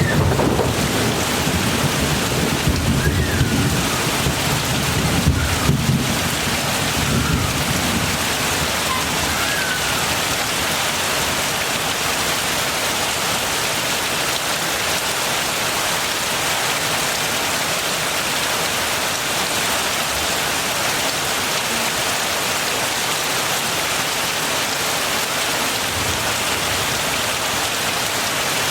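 Heavy rain falling steadily. Distant thunder rumbles low for the first several seconds, then fades, and a few faint short chirps sound in the first ten seconds.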